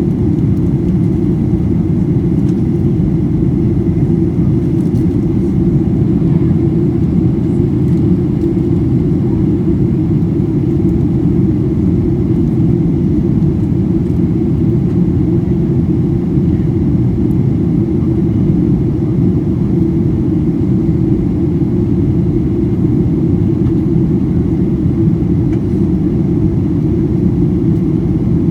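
Steady low rumble of cabin noise inside a Boeing 737-800 in flight or on the runway: engine and airflow noise, even throughout.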